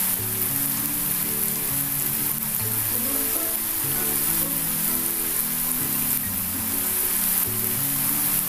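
Rice-flour dough pieces deep-frying in hot sunflower oil, a steady sizzle like rain on a surface. Background music with low sustained notes runs under it.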